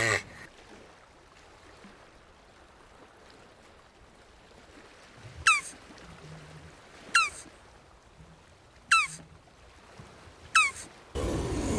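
Jabuti tortoise calling: four short, sharp squeaky calls, each a quick upward sweep, evenly spaced about every second and a half to two seconds.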